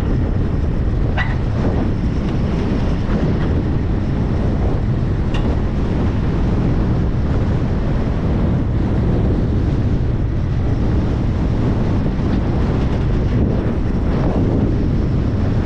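Strong wind buffeting the camera's microphone through its wind guard: a steady, loud, low rumble of wind noise.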